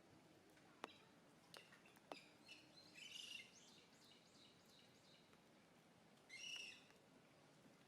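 Birds chirping faintly in two short bursts, one a few seconds in and one near the end, with a few sharp clicks near the start.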